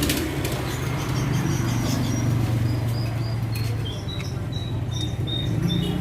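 Yamaha F1ZR two-stroke motorcycle idling through a stainless racing exhaust, a steady low running note. Short high chirps from birds come in over it in the second half.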